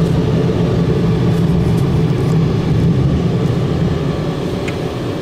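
Conveyor car wash dryer blowers running with a steady, loud rush of air. The sound eases off slightly about four seconds in.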